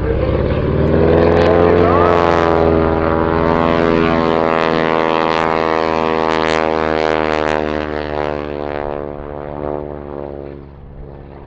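A wingwalking biplane's propeller engine running at power. It swells in the first second or two, holds steady, then fades with its pitch sagging as it draws away near the end.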